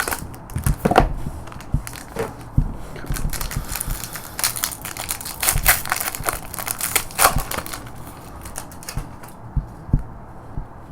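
Trading-card pack wrapper crinkling and tearing as it is opened and the cards are pulled out: a run of dense crackles that thins out near the end.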